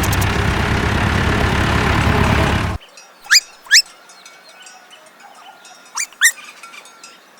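A tractor engine running with a steady low hum, cutting off suddenly about three seconds in. After it, birds give two pairs of short rising chirps over a quiet background.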